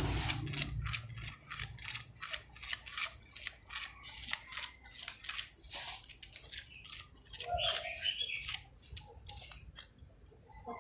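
Toys being handled and set down on a hard surface: a run of irregular light clicks and taps, several a second, with a short scrape about eight seconds in.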